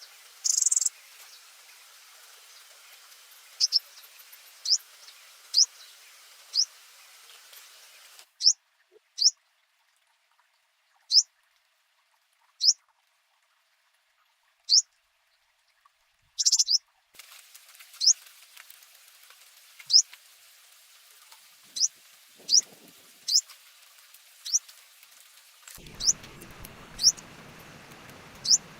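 A small bird calling with repeated single short, high chirps that slide downward, one every second or two, with a few louder calls among them. A steady low noise starts near the end.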